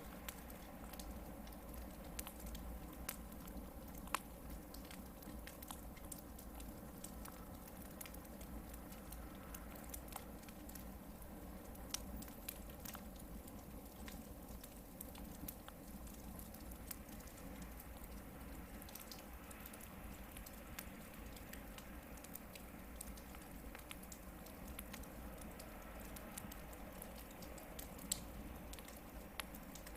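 Hardwood campfire burning with a soft steady hiss and many small crackles, with a few sharper pops about 4 s in, 12 s in and near the end.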